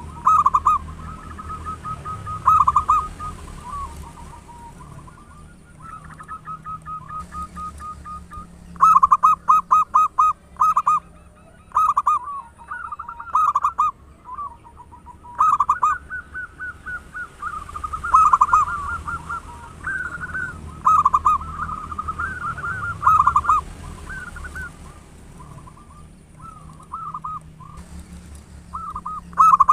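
Zebra dove (perkutut) cooing song: phrases of short, quick coo notes, some in rapid staccato runs, repeated with brief pauses between them. It is a recording of a strongly singing local perkutut, played as a lure to get other perkututs calling.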